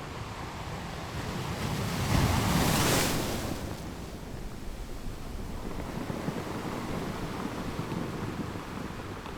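Waves washing: a steady rushing noise that swells to its loudest about two to three seconds in, then eases back.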